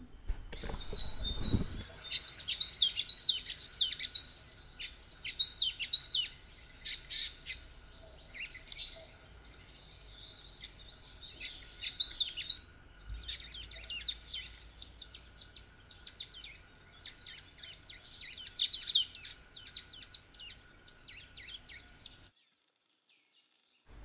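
Small songbirds chirping in quick runs of short, high, falling notes, with brief pauses between the runs; the calls stop abruptly near the end.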